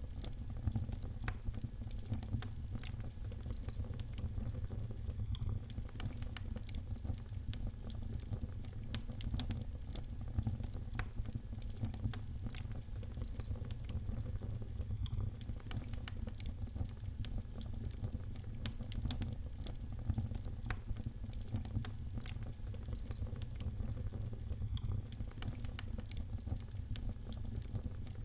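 Wood fire crackling and popping in a fireplace: frequent sharp snaps over a steady low rumble of burning.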